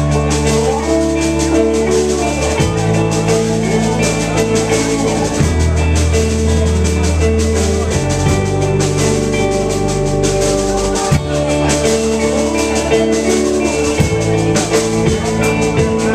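A live rock band playing an instrumental introduction: a drum kit with bass drum and rimshots, sustained guitar or keyboard chords and a bass line.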